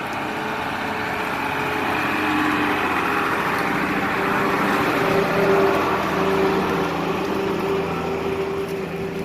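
Heavy truck engine labouring under load as it tries to climb a rain-wet slope, its drive tyres spinning and digging in without grip. The engine note swells toward the middle and eases off near the end.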